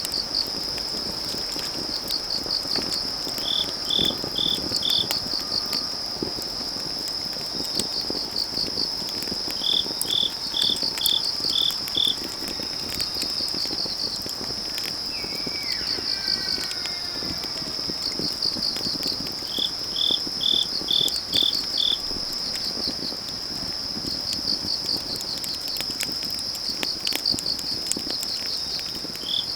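Crickets chirping: a steady high trill under groups of quick chirps that come again every few seconds, over the crackle and scattered pops of a burning wood fire. About halfway through comes a faint, falling call from a distant elk.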